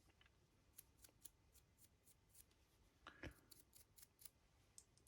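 Near silence with faint, irregular small ticks and clicks from handling a resin model while painting it, and one slightly louder scrape about three seconds in.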